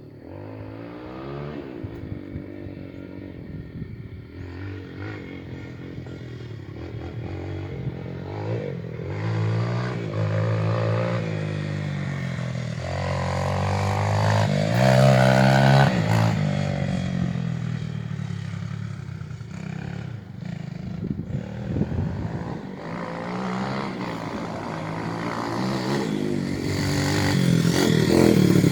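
Small dirt bike engine being ridden, revving up and easing off again and again. It gets louder as the bike nears about halfway through and once more near the end.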